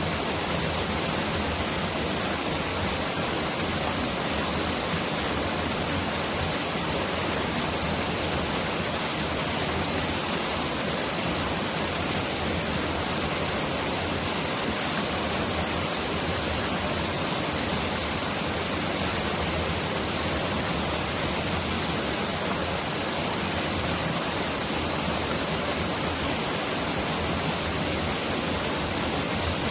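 Mountain valley stream rushing in a steady, dense hiss that sounds like heavy rain pouring down.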